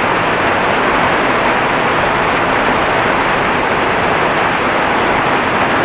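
Heavy tropical downpour: a steady, dense hiss of rain pouring down and hitting the ground.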